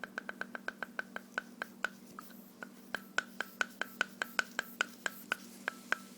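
O.S. 50 Hyper nitro helicopter engine rocked back and forth by hand, giving a quick run of light clicks, about five a second, with a short lull around two seconds in. The clicks come from play between the crankshaft and the piston, which the owner hopes is normal.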